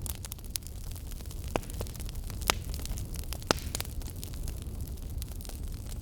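Fire burning in a fireplace: a steady low rumble under frequent sharp crackles and pops, the loudest pops about two and a half and three and a half seconds in.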